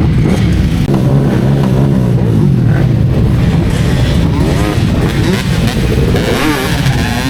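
Ducati Streetfighter V4S's V4 engine running while riding, revving up and down with the throttle so its pitch rises and falls several times in the second half.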